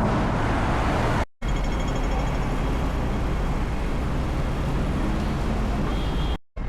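Steady outdoor city background noise, a low rumble with hiss like traffic or wind on the microphone. It cuts out abruptly twice, about a second in and near the end.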